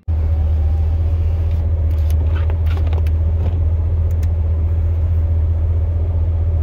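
Pickup plow truck's engine running with a steady low rumble, with a few faint clicks about two to four seconds in.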